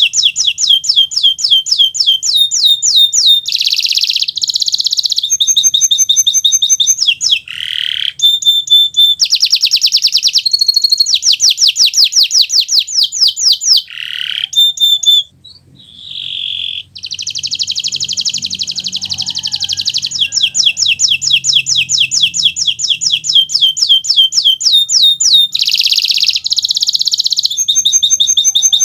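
Domestic canary (Kenari Nusantara) singing a long, loud song of rapid trills of repeated high notes, alternating with short buzzy rolls. The song breaks off for about a second near the middle, then resumes with another long trill.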